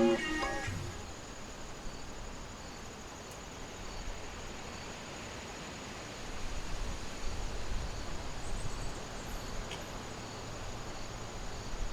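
Quiet outdoor ambience: a faint steady hiss with a thin, high insect drone, and a low rumble that comes in about six seconds in.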